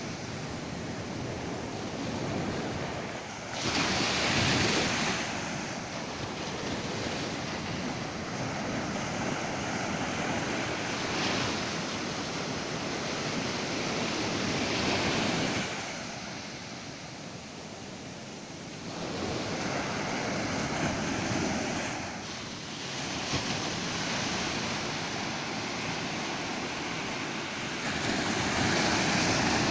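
Ocean surf breaking on a beach, waves swelling and washing in every few seconds over a steady hiss, with some wind on the microphone.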